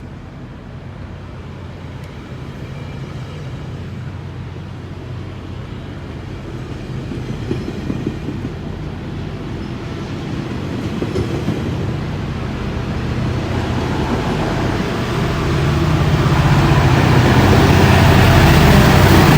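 GO Transit diesel commuter train running, its locomotive's engine hum and the rumble of the train growing steadily louder, most sharply in the last few seconds.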